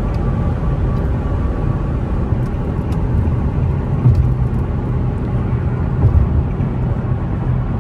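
Steady low rumble of an Infiniti G37 being driven, heard from inside the cabin: V6 engine and road noise.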